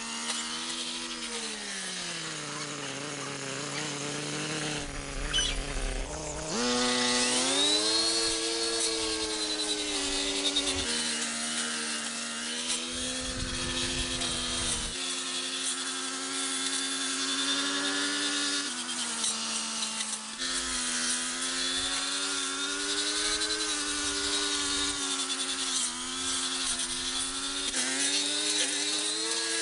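Chainsaw engine running, its pitch sagging and climbing as it is throttled while cutting, with a sharp rise about six and a half seconds in.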